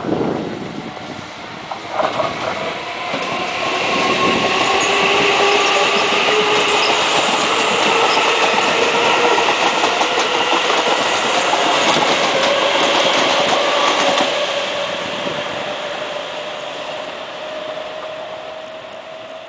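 Keisei Line electric commuter train passing close by and gathering speed: a few clacks near the start, then wheel and rail rumble with the motor whine climbing steadily in pitch as it accelerates. It is loudest in the middle and fades as the train recedes.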